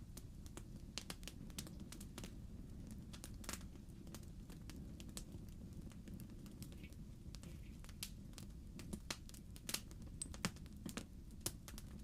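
Fireplace logs burning with a soft low rumble and frequent irregular crackles and pops, a few louder snaps near the end.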